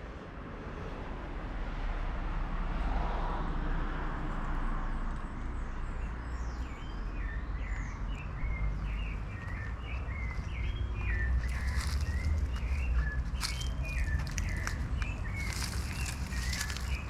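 Small birds chirping repeatedly over a steady low rumble, with scattered clicks and rustles joining in the second half.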